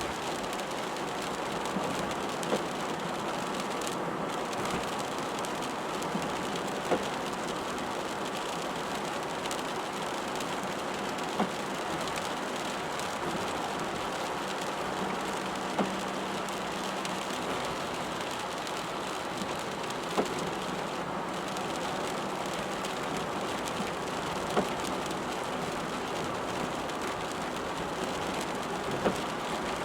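Rain falling on a moving car, with the steady hiss of tyres on a wet road. A short knock comes about every four and a half seconds.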